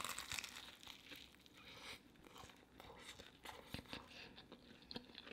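A bite into a crisp deep-fried taco shell, a faint crunch at the start, then quiet chewing with scattered small crunches.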